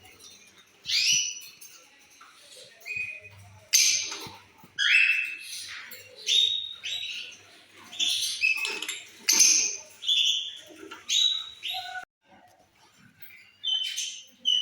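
Lovebirds calling: a rapid series of short, shrill chirps, about one or two a second.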